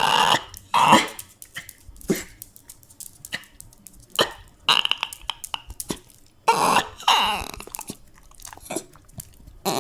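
Dog crying and whining in a string of short, pitched yelping cries with quiet gaps between them, and one longer drawn-out cry about two-thirds of the way through.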